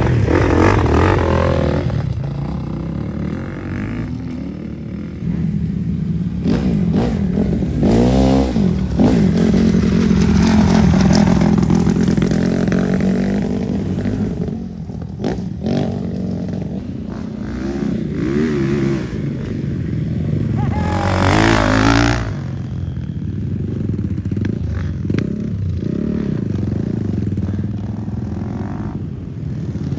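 Motocross dirt bike engine being ridden hard, its pitch rising and falling with the throttle through the gears. Sharp revs climb around 8 s and again around 21 s.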